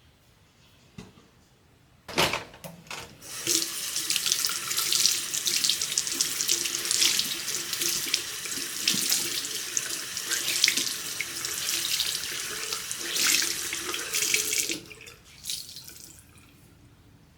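A knock, then water running from a tap into a sink for about eleven seconds before it stops and trickles off.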